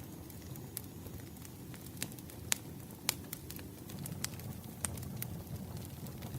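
Crackling wood fire: irregular sharp snaps and pops over a steady low rumble of burning logs, with two louder pops about halfway through.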